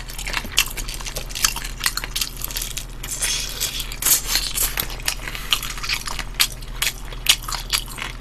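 Close-miked chewing of kkanpung-glazed fried chicken, with many short, crisp crunches at an irregular pace.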